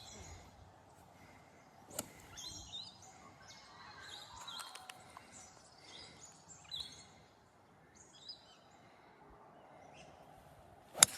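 Birds chirping and calling on and off over a low outdoor background. Near the end there is one sharp, loud crack of a golf club striking the ball off the tee.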